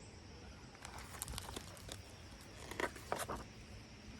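A picture-book page being turned: faint paper rustling and a few soft taps, loudest about three seconds in.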